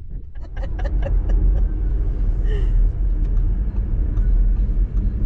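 Car road noise heard from inside the moving car: a steady low rumble. A quick run of light clicks comes in the first second and a half.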